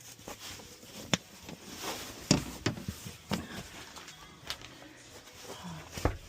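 Irregular handling noises of bedding being changed: fabric rustling with scattered sharp knocks and thumps. The loudest thumps come a little over two seconds in and just before the end.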